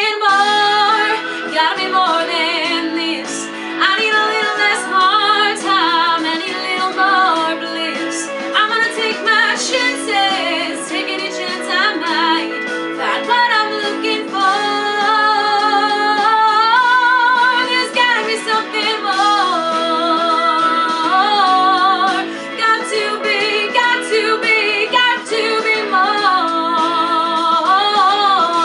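Female vocalist singing over a musical accompaniment: long held notes and runs, with vibrato on many notes, that carry on with few or no clear words.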